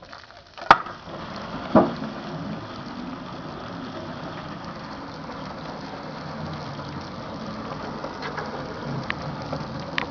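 A dying microwave oven: a sharp click about a second in and a thump just after, then a steady rushing noise with a few faint crackles near the end.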